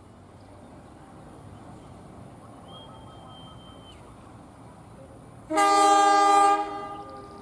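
A single loud blast of a train horn about five and a half seconds in, held for about a second and then dying away. Before it, about three seconds in, comes a faint thin high whistle lasting just over a second.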